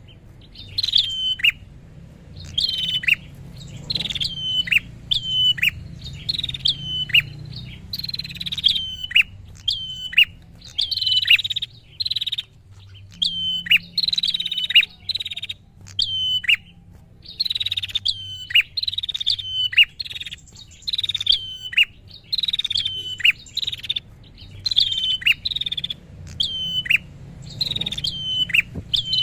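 Prinia (prenjak) calling over and over: short, high chirps that each drop sharply in pitch, repeated roughly once or twice a second, over a faint low hum.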